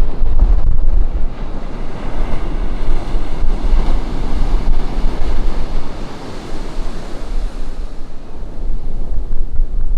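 Ocean surf breaking and washing up a beach, swelling a few seconds in and easing off near the end. Wind buffets the microphone as a low rumble underneath.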